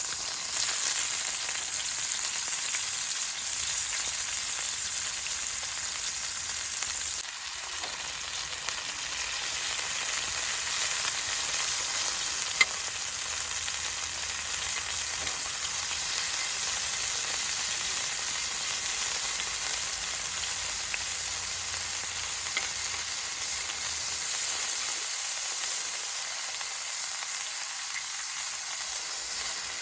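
Food sizzling and frying in a hot pan: a steady hiss with small crackles, and one sharp click about twelve seconds in.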